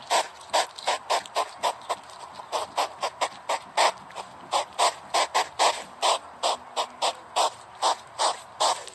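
Hedgehog huffing: a rapid run of short, sharp puffs, about three to four a second, stopping suddenly.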